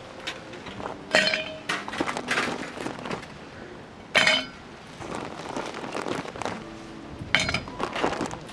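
Glass clinking: a run of sharp clinks and light clattering, with three louder clinks about three seconds apart, some ringing briefly.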